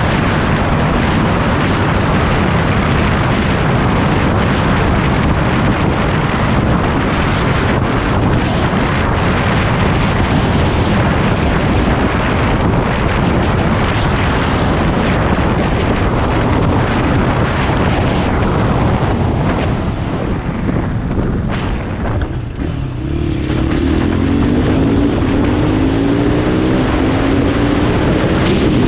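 KTM 500 EXC single-cylinder four-stroke motorcycle engine running under way, with heavy wind noise on the microphone. About two-thirds through the engine note drops away, then rises in pitch as the bike accelerates.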